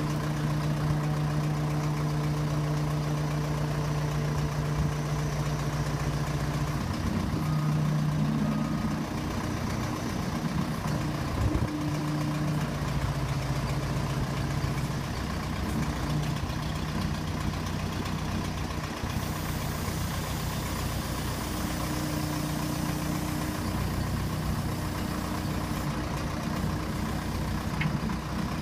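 Case tractor engine running steadily at idle, its pitch shifting briefly about eight seconds in.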